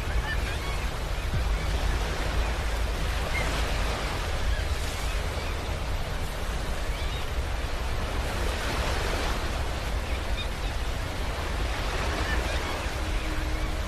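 Ocean surf: waves breaking and washing up a beach as a steady rush of noise that swells every four seconds or so.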